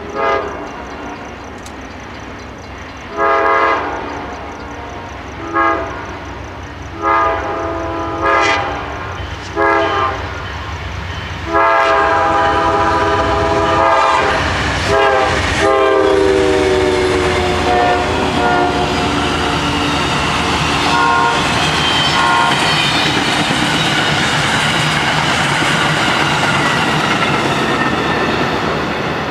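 Locomotive air horn sounding a run of short blasts, then one long blast that drops in pitch as the train passes. The horn gives way to the steady rumble and clatter of the train's wheels on the rails.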